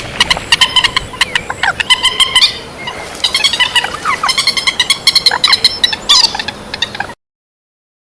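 Recorded calls of the trích ré bird, a lure call used for bird trapping: loud, fast chattering runs of sharp repeated notes in bursts. The calls cut off abruptly about seven seconds in.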